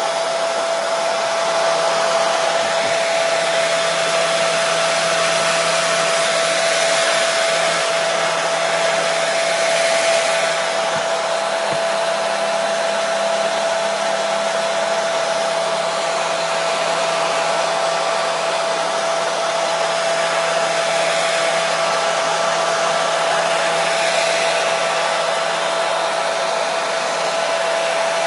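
Hair dryer running steadily, its airflow an even rush with a constant motor hum.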